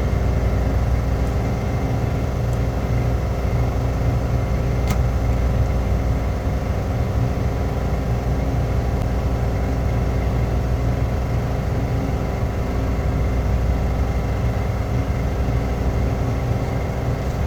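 Steady low drone of a large ship's engine and machinery, with a single sharp click about five seconds in.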